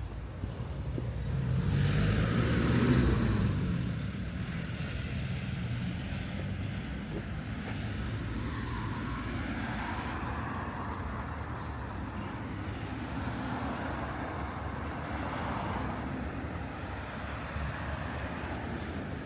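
A motor vehicle passes close by, loudest about three seconds in, its engine note dropping as it goes. After it, steady street traffic noise continues.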